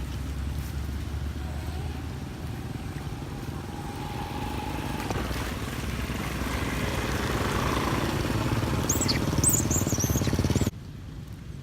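A motor vehicle's engine running and growing louder, with a rising whine, and a few short high squeaks near the end. The sound cuts off abruptly about two-thirds of a second before the end.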